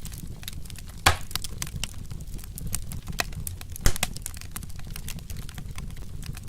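Wood fire crackling: a stream of small sharp snaps over a low steady rumble, with two louder pops, about a second in and just before four seconds in.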